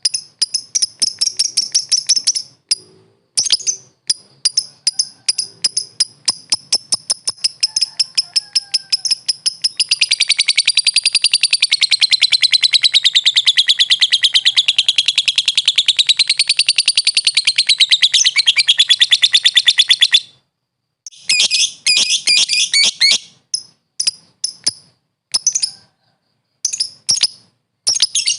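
A lovebird singing: fast, high clicking chirps, then one long unbroken trill of about ten seconds that wavers up and down in pitch and breaks off suddenly, followed by short bursts of chirping.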